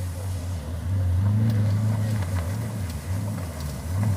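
Racing vehicle engine running, its revs rising and falling, louder from about a second in.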